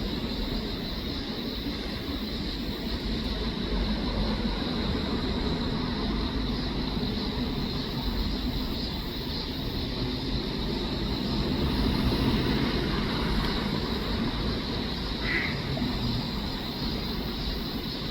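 Steady low rumble of distant road traffic, with a thin steady hiss above it and one brief short chirp about fifteen seconds in.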